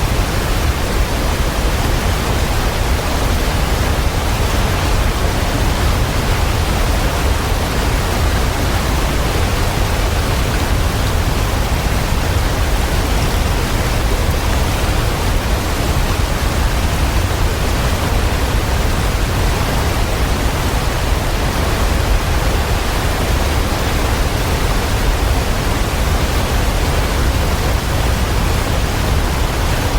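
Waterfall pouring steadily: a dense, even rush of falling water with a strong low rumble underneath.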